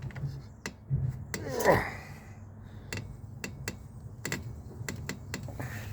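Irregular sharp clicks and light knocks from hands working on a 125 cc pit bike, over a faint low hum, with one louder brief sound about two seconds in.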